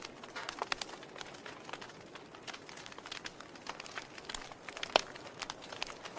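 Wood fire burning in a fireplace, crackling with irregular sharp pops over a low hiss, one louder pop about five seconds in.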